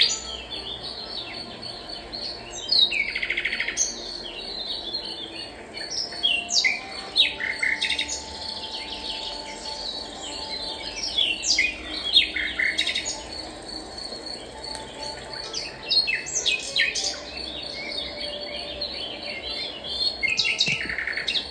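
Songbirds chirping and singing: many short calls, mostly quick downward-sweeping notes and brief trills, with a faint steady high tone underneath.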